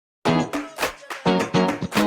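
Music led by a strummed acoustic-style guitar, starting abruptly a quarter second in after a brief dead silence, with a steady rhythm of sharp chord strokes.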